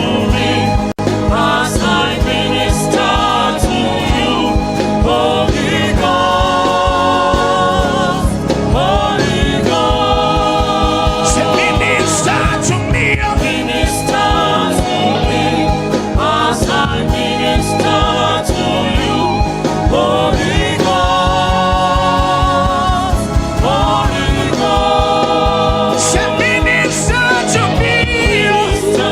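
Gospel worship music: singing over held chords, steady and continuous.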